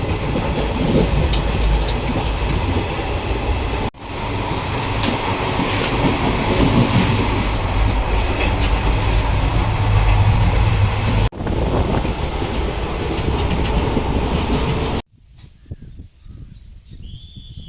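Passenger train running along the line, a steady rumble of wheels on rails with some clickety-clack, from a train made up of sleeper-class coaches. The sound breaks off abruptly a few times, and for the last couple of seconds it is a much quieter rumble.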